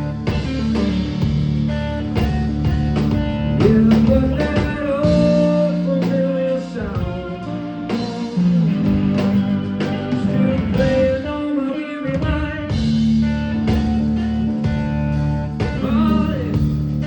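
Live blues-rock band playing an instrumental passage, a lead guitar bending notes over bass and drums.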